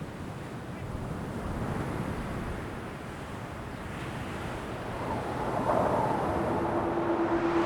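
Steady rush of ocean surf and wind. A single held musical tone fades in near the end.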